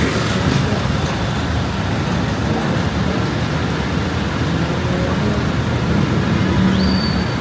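Street traffic: vehicle engines running steadily in a low, continuous rumble, with a brief high whistle-like tone near the end.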